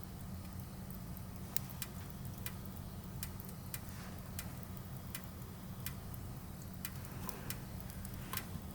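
Burning firewood crackling, with about a dozen sharp pops at irregular intervals over a steady low rumble.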